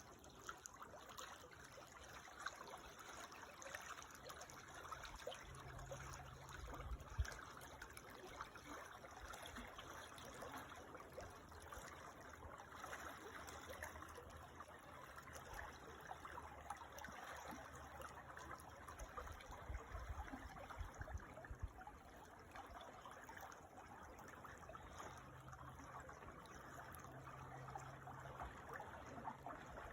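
Quiet creek water trickling and babbling over stones, steady throughout, with a few brief low rumbles, the sharpest about seven seconds in.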